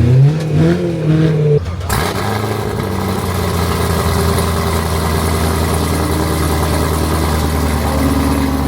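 Car engine revving in quick rising and falling blips, then, after an abrupt sharp change about two seconds in, running at a steady low rumble.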